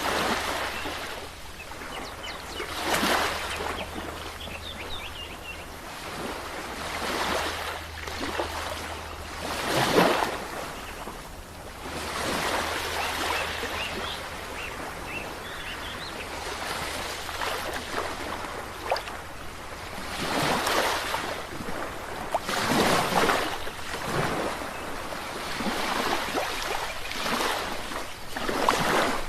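Ocean waves breaking and washing in, one surge after another every few seconds, the loudest about ten seconds in.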